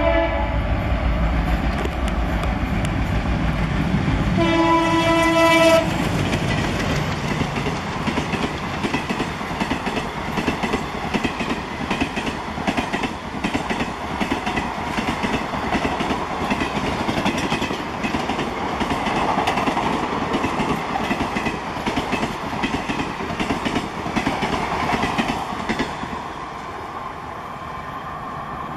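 Express train passing at high speed. Its horn sounds at the start and again in a blast of about a second, roughly five seconds in, as the locomotive rushes by. The coaches then clatter fast over the rail joints for about twenty seconds, fading near the end as the train goes away.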